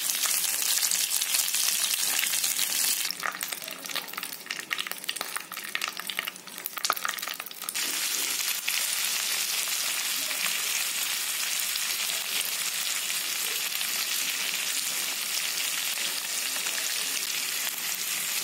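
Oil sizzling as chopped vegetables fry in a non-stick pan: green capsicum at first, then tomato pieces with bay leaves. From about three to eight seconds in the sizzle turns patchier and quieter, with many sharp clicks, before it settles back to a steady hiss.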